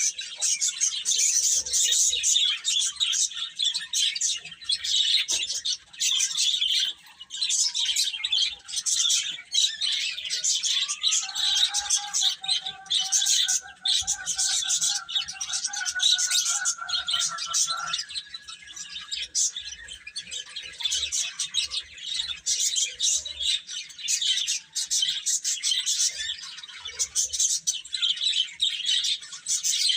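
A brood of baby chicks chirping continuously, many high, rapid peeps overlapping. A fainter steady tone sits under them for several seconds near the middle.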